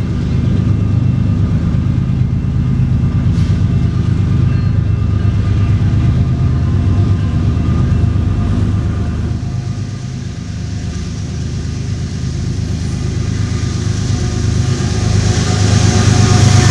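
BNSF diesel-electric locomotives leading a double-stack container train, their engines rumbling steadily as they approach. The sound dips about two-thirds of the way through, then grows louder near the end as the locomotives come close to pass.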